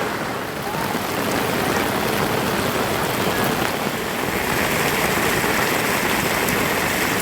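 Heavy monsoon rain falling steadily, an even wash of noise. A higher, steady hiss joins about four seconds in.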